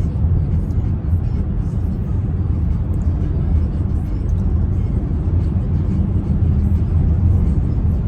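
Steady low rumble of a car heard from inside the cabin, with music playing faintly.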